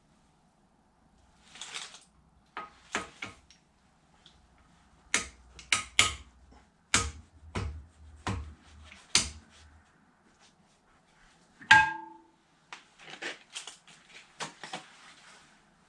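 Hand tools clanking and knocking on metal engine parts while the old engine's head and cylinder are taken off, a string of irregular sharp knocks. One louder metallic clank about three-quarters of the way through rings briefly.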